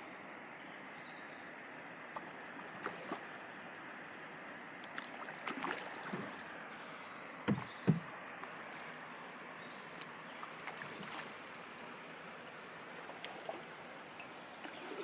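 Canoe being paddled on a shallow river: steady rush of water around the hull with scattered light paddle knocks and drips, and two louder knocks in quick succession about halfway through.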